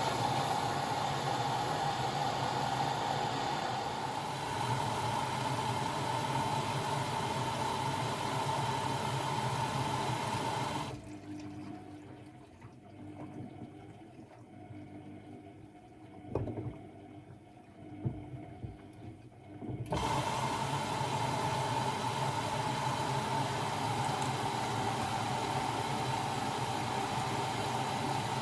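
Constructa Energy 1000s washing machine taking in water: a steady rush of water filling the machine with a low hum, which stops about eleven seconds in, leaving a quieter stretch with a few knocks, and starts again some nine seconds later.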